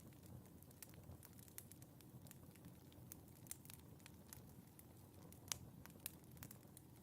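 Fireplace wood fire crackling faintly, with scattered small pops and a sharper pop about five and a half seconds in, over a low steady rumble of the flames.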